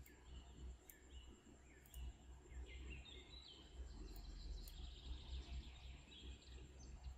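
Faint background of birds chirping in short, falling chirps over a low steady hum, with a few soft clicks.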